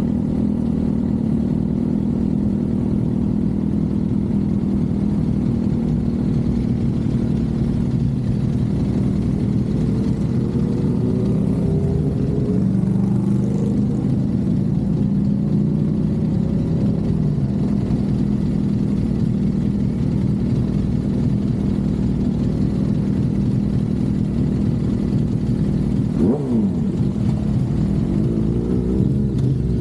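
Suzuki GSX-R750's inline-four running under way, its pitch rising as it accelerates partway through. Near the end the revs drop sharply and climb again, like a gear change.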